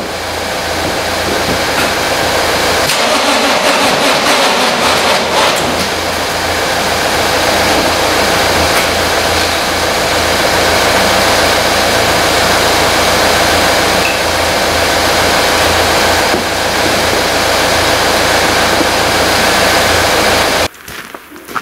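Red Volvo's engine running with the bonnet open, a loud, steady mechanical noise with a low hum under it. It cuts off suddenly near the end.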